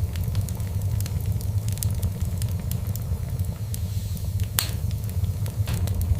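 Fireplace fire crackling, with many small sharp pops over a steady low rumble and one louder pop about four and a half seconds in.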